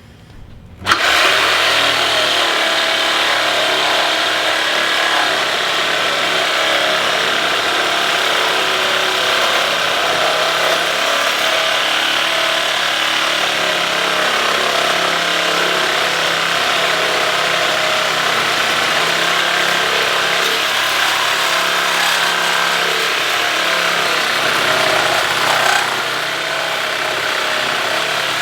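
A power saw cutting through steel on a motorcycle frame, starting about a second in and then running steadily under load, with a slight drop in level near the end.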